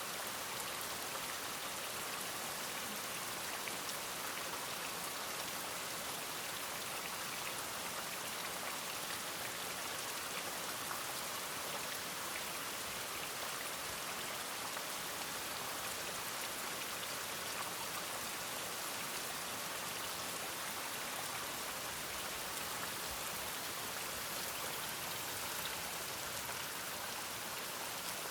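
Steady rain falling, an even hiss of drops with no change in level.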